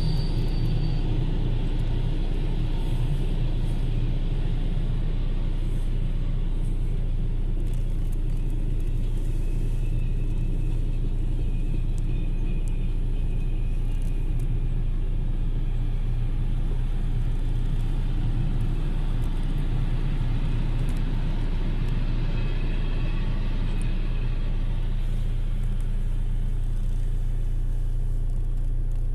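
Freight train of covered wagons rolling past a level crossing, a steady low rumble heard from inside a stopped car.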